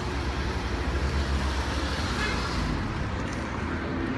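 Road traffic with a car moving close by: a steady low engine and tyre rumble that swells slightly about halfway through.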